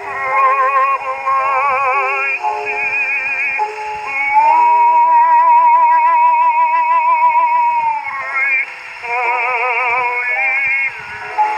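A baritone singing with a wide vibrato on a 1922 acoustic-era 78 rpm record, with a long held note in the middle. The sound is narrow and muffled, with almost no highs.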